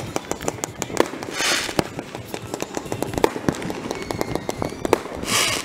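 Fireworks going off: a rapid run of pops and bangs with a few louder booms, and two brief hissing rushes, one about a second and a half in and one near the end.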